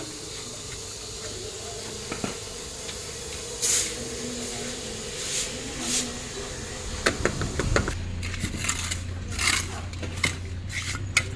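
Scattered clinks and scrapes of hand tools, a trowel and bucket, at a fresh cement patch over a repaired water pipe, with a few short hissy sweeps. A low steady hum begins near the end.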